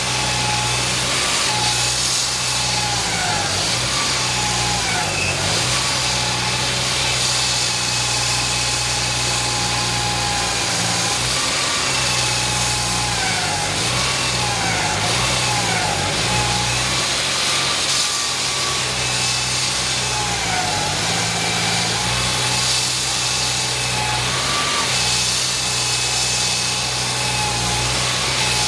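An engine running steadily at a low hum, with whining tones above it that dip in pitch and come back up every few seconds.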